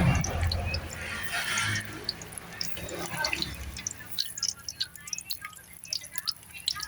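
Water splashing and dripping, with many small scattered drips and ticks.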